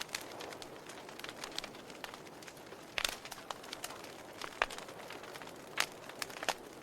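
Wood fire crackling in a fireplace: a steady low rush of burning, scattered with sharp pops and snaps, the loudest about three seconds in.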